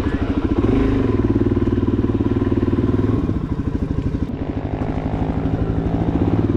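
Suzuki DR-Z400SM's single-cylinder four-stroke engine running at low revs on a dirt trail, with an even pulse of firing strokes. The revs drop to a slower, quieter putter about halfway through and pick up again near the end.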